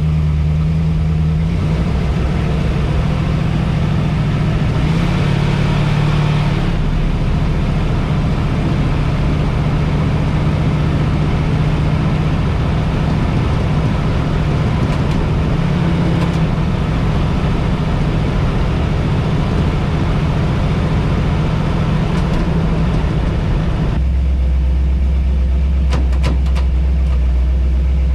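The supercharged engine of a 1952 Mercury running steadily while the car is driven on the road. Near the end the engine note drops to a lower pitch.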